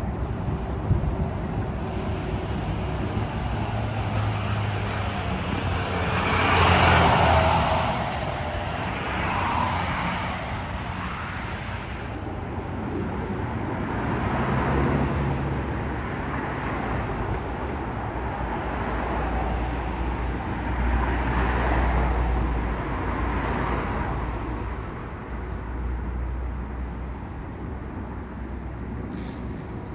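Road traffic: several vehicles pass one after another over a steady low engine rumble, the loudest pass about seven seconds in.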